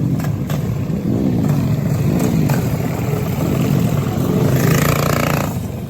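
Small pull-start mini bike engines running and revving, their pitch rising and falling, with one engine louder and higher-pitched for about a second near the end.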